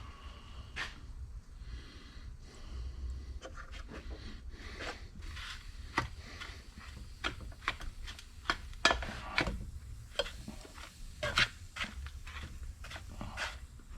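Irregular light clicks, taps and rubbing scrapes of small metal parts and tools being handled, most frequent in the second half.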